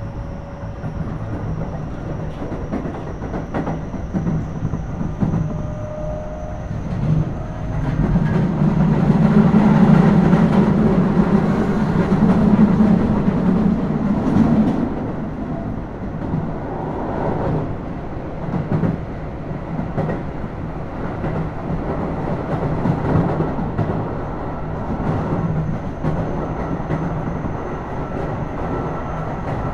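Keio Series 5000 electric train heard from inside motor car DeHa 5282 while running at speed. There is steady wheel-and-rail rumble with repeated clicks as the wheels pass over rail joints. The rumble grows louder from about eight seconds in and eases off again around fifteen seconds.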